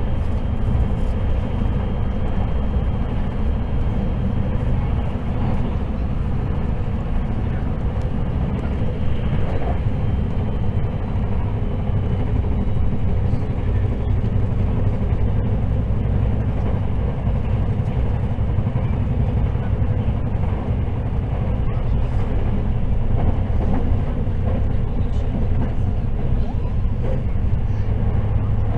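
Steady running noise inside the passenger cabin of the Hakutaka limited express electric train at speed: a low rumble of wheels on rail and running gear, unchanging throughout.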